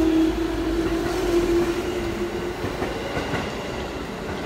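Electric train running past along a station platform: a steady motor hum over rail rumble and wheel clicks. The hum fades about halfway through, and the whole sound slowly dies away as the last car goes by.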